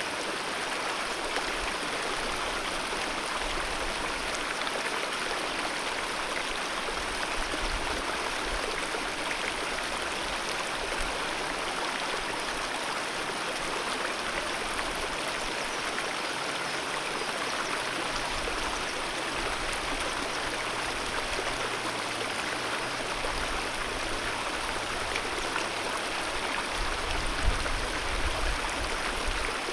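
Alpine mountain river rushing and gurgling over rocks in a steady, unbroken flow of water noise.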